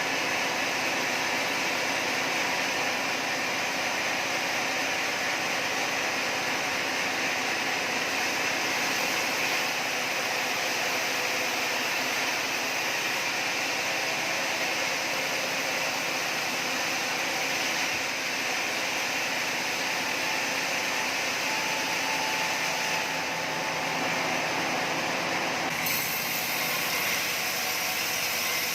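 Sawmill saw running steadily as it cuts timber, a loud even noise whose tone shifts about 26 seconds in.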